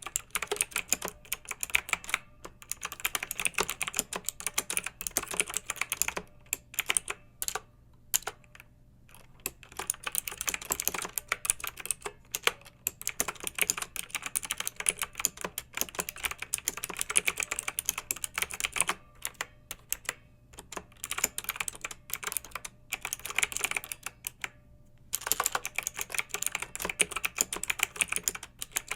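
Clicky mechanical keyboard being typed on in quick runs of keystrokes, with a few brief pauses, the longest about a quarter of the way in.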